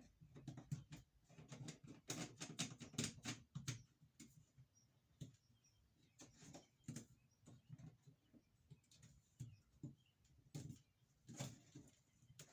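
Light clicks and knocks of plastic drain pipe and fittings being handled and fitted together, in a quick run about two to four seconds in, then scattered.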